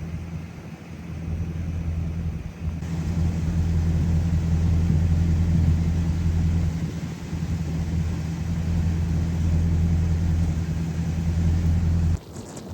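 Steady low rumble of a car on the move. It cuts off abruptly near the end.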